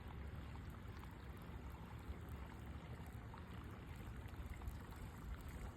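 Faint water sounds, a light pouring or trickling, over a steady low rumble.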